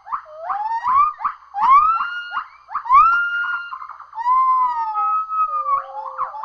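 Primate calling: a series of clear, whistle-like whoops that rise and fall in pitch. Quick notes give way to longer drawn-out ones from about a second and a half in.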